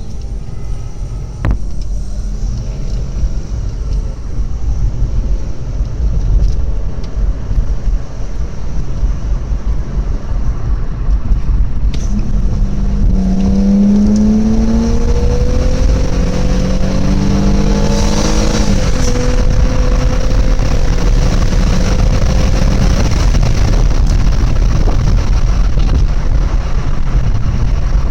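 BMW 323Ci's 2.5-litre straight-six heard from inside the cabin while driving, over a constant low road rumble. About halfway through the engine note climbs under acceleration, breaks off at a gear change, then runs steady at cruise.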